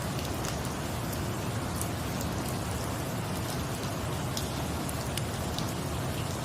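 Steady rain hiss with a few sharp, high crackles or drop ticks scattered through it, part of a rain-and-fireplace ambience mix.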